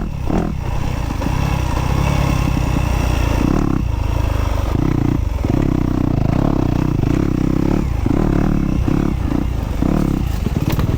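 Dirt bike engine running under throttle while riding, dropping off briefly several times as the throttle is rolled off and picking up again.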